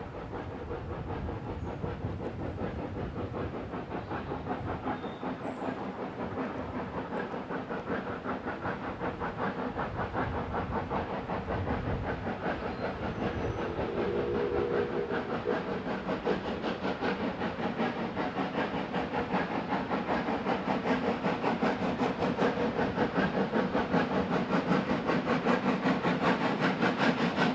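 Steam locomotive working hard, its rapid, rhythmic exhaust beats growing steadily louder as it approaches.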